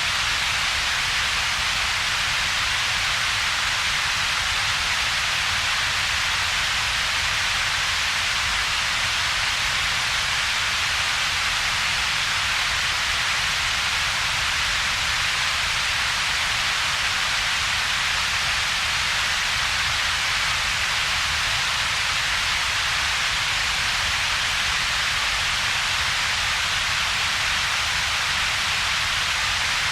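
Synthetic double-peaked noise, steady and unchanging: a low rumble band below about 200 Hz and a stronger hiss band centred a few thousand hertz up, with a gap between them.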